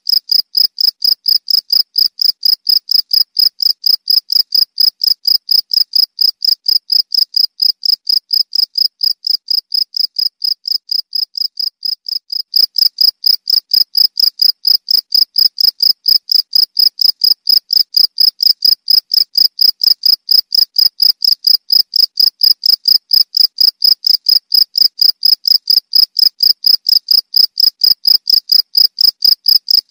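Cricket chirping steadily at one high pitch, an even pulse about four times a second. It fades a little about a third of the way in and comes back louder soon after.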